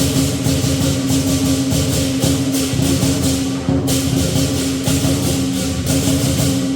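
Lion dance percussion, with drum, clashing cymbals and gong, playing a fast, dense beat, then stopping suddenly at the end.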